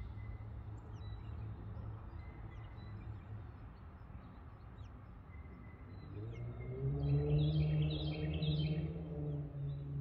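Birds chirping outdoors: short high chirps scattered throughout, and a quick run of four or five rising chirps about seven to nine seconds in. Over a steady low background rumble, a low hum swells up in the second half, rising in pitch, holding, then falling away, and is the loudest sound.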